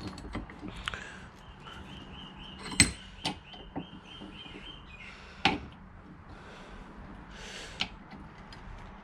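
Quiet handling of metal parts: a few sharp clicks and knocks, the loudest about three seconds in and another about five and a half seconds in. Through the middle runs a series of quick, evenly repeated high-pitched chirps, about three or four a second.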